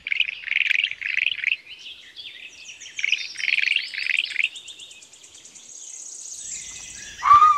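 Birds chirping in quick repeated bursts. A high, thin, insect-like trill joins partway through and carries on after the chirps fade. A brief louder tone sounds near the end.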